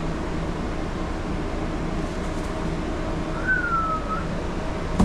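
A machine motor running steadily with a low, even hum, likely the dryer-vent cleaning equipment. A short high whistle glides slightly downward a little past the middle.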